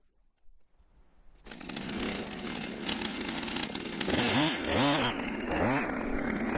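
Husqvarna 455 Rancher two-stroke chainsaw coming in suddenly about a second and a half in and running at high revs, its pitch dipping and rising again several times.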